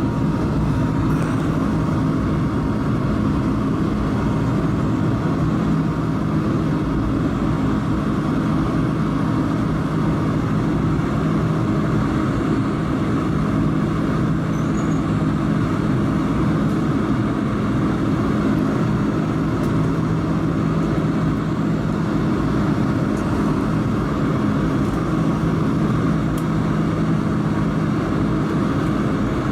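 Steady cabin noise inside an Airbus A220-300 in flight: the drone of its Pratt & Whitney PW1500G geared turbofans and the rush of air past the fuselage, with steady low hums underneath and no change throughout.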